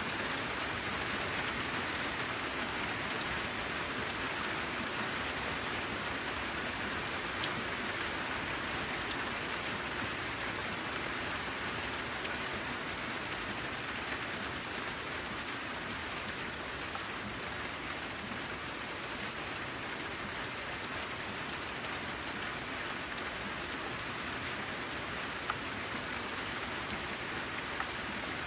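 Steady rain falling on a corrugated zinc (sheet-metal) roof: an even hiss of rainfall with scattered sharper ticks of single drops striking the metal.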